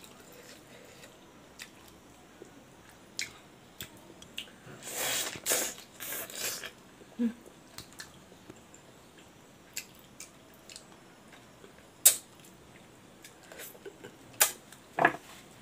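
Chewing and eating by hand: wet mouth smacks and clicks while pork leg and rice are chewed, with a longer stretch of louder chewing about five seconds in and a few sharp clicks near the end.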